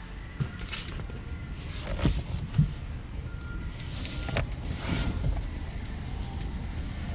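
2012 Ford Fiesta's 1.6-litre four-cylinder engine running at a steady idle, with a few short knocks about two seconds in.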